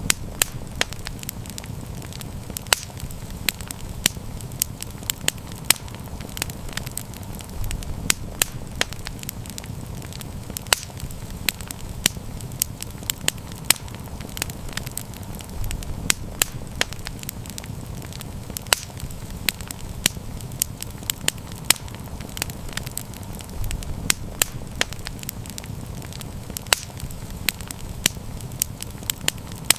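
Wood fire crackling, with frequent sharp irregular pops over a low rumble of the flames that swells every eight seconds or so.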